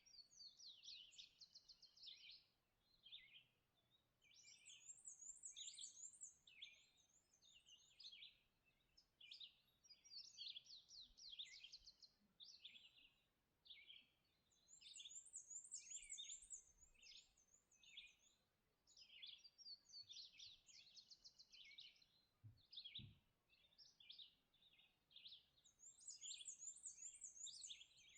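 Several songbirds singing at dawn, phrases of quick chirps and trills overlapping with hardly a gap. One bird repeats a high, buzzy trill about every ten seconds.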